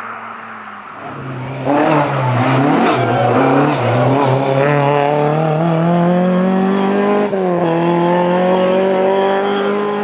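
Rally car engine being driven hard. It gets loud after about a second and a half, with the revs rising and falling briefly, then climbing steadily under acceleration. About seven seconds in the pitch drops sharply at a gear change, then climbs again.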